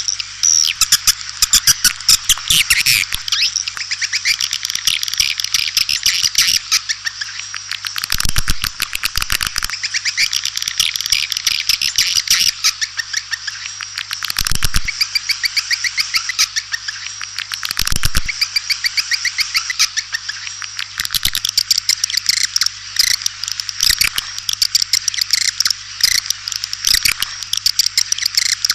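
White-nest swiftlet call lure: a dense, unbroken chorus of twittering chirps and rapid clicking trills, with a faint steady hum underneath. This is the recording played to draw swiftlets into a nesting house.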